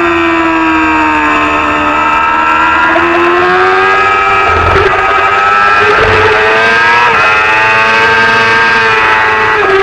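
Racing motorcycle engine running hard at high revs, its pitch rising and falling as it accelerates and slows, with quick breaks in the note at gear changes several times.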